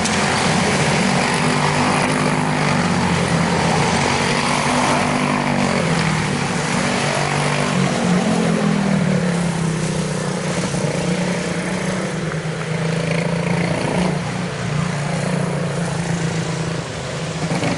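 Quarter-midget race cars' small single-cylinder Briggs & Stratton Animal engines running at racing speed. The pitch rises and falls as they go around the track, and after about ten seconds it settles lower and steadier.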